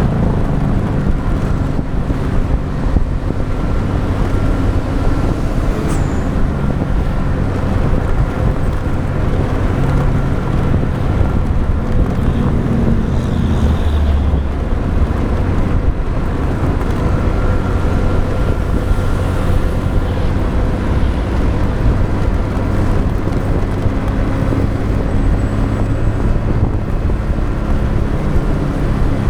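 Motorbike engine running steadily while under way, with tyre and traffic noise around it.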